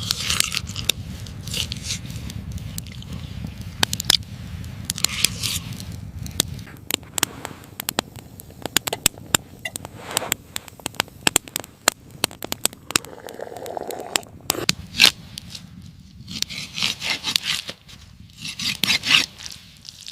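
Scraping and crackling: a run of sharp clicks and crackles with repeated rasping scrapes, most of them clustered near the end, over a low rumble that fades out about a third of the way in.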